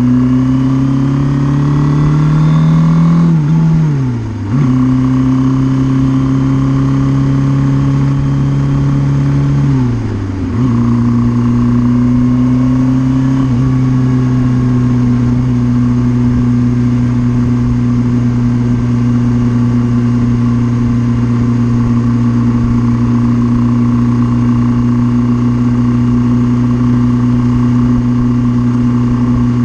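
Suzuki GS650G air-cooled inline-four motorcycle engine running under load. Its note climbs for a few seconds, then twice drops sharply with a brief dip in loudness, about four and ten seconds in, each time settling at a lower steady pitch. The drops are like the throttle being rolled off for a gear change, and the engine then holds a steady speed.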